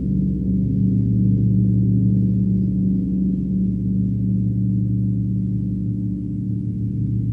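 Large gong played for a sound bath: a sustained deep drone of many overlapping low tones with no distinct strikes. Near the end a slow pulsing wobble comes into it.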